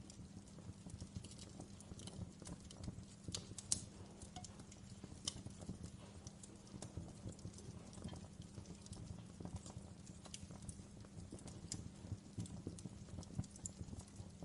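Wood fire crackling in a fireplace: irregular sharp pops and snaps over a low steady rumble of the flames, with one louder pop nearly four seconds in.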